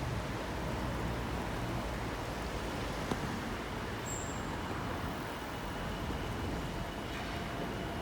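Steady rumble and hiss of vehicle noise, with a faint click about three seconds in and a brief high squeak a second later.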